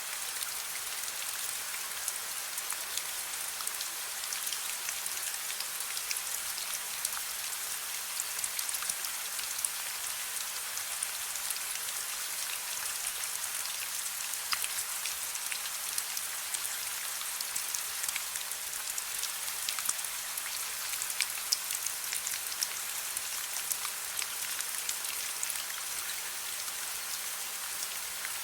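Steady soft rain falling: an even hiss with many small drop ticks scattered through it.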